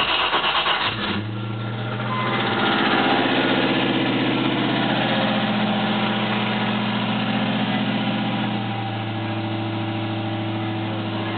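The 1995 Land Rover Discovery's 3.9-litre V8 is cranked by the starter, catches about a second in and settles into a steady idle heard from inside the cab. The idle steps down a little near the end. The owner calls the engine's running kind of rough because of ongoing issues.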